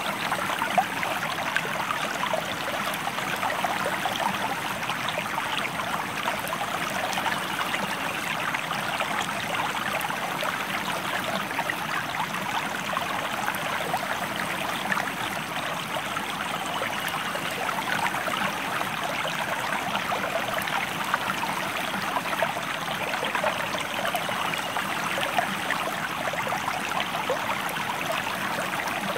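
A river flowing steadily, its water sound even and unbroken throughout.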